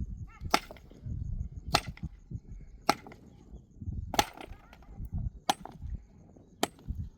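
Wood being chopped: sharp, even chopping blows about one every second and a quarter, six in all.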